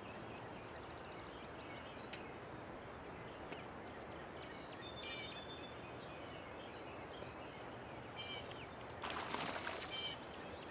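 Small birds chirping and singing in short, high phrases over a steady outdoor background hiss, with a brief rushing noise near the end.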